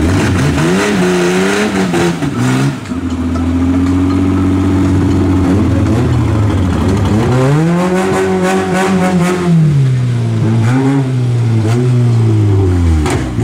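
Car engine revving hard, its pitch climbing and falling several times as it accelerates and lifts off. Around the middle it is held high for a few seconds, with a few sharp knocks.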